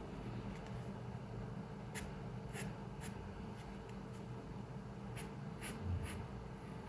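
Pencil strokes on paper: two clusters of three short strokes, about two seconds in and about five seconds in, over a steady low room hum, with a soft low thump near six seconds.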